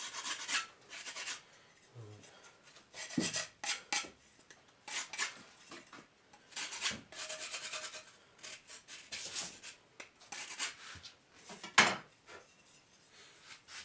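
Hand scraping and rubbing on a facing brick tile in short bursts of quick strokes, with a sharp knock about twelve seconds in.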